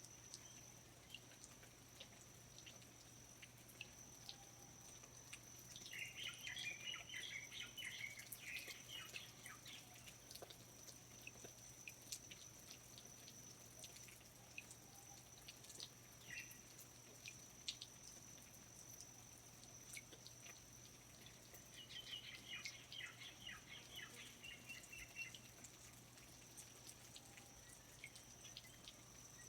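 Faint rainforest ambience: scattered water drips over a steady high-pitched whine, with two bursts of chirping bird song, about six seconds in and again about twenty-two seconds in.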